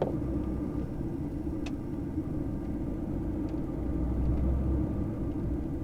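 Truck engine and road rumble heard from inside the cab, a steady low rumble that swells slightly about four seconds in.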